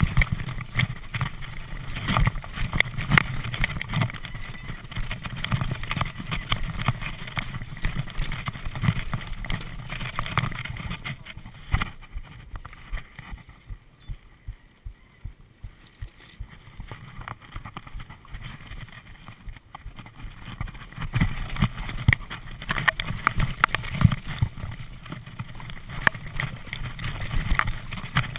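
Bicycle ridden over rough ground: a constant clatter of knocks and rattles with wind buffeting the microphone, easing off for a few seconds around the middle.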